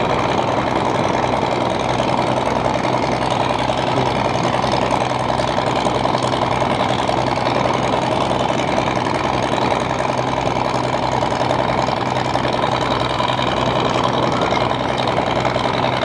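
A light propeller aircraft's piston engine running steadily at idle, with no change in pitch or level.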